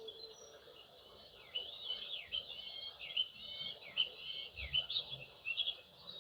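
Small birds chirping and twittering. A busy run of quick, high calls that dip and slide in pitch starts about one and a half seconds in.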